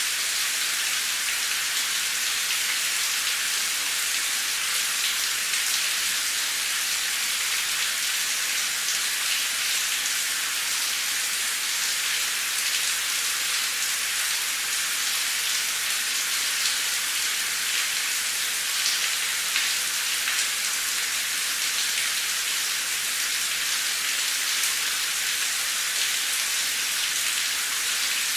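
Steady rain falling on a street, droplets hitting concrete: an even hiss with faint ticks of single drops scattered through it.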